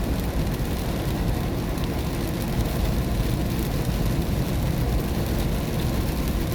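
Steady cabin noise of a car driving on a wet road in the rain: a low, even rumble of tyres and engine with a rain hiss over it.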